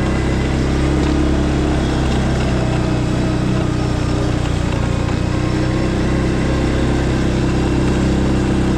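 An engine running steadily at a constant speed, with an even hum that does not rise or fall.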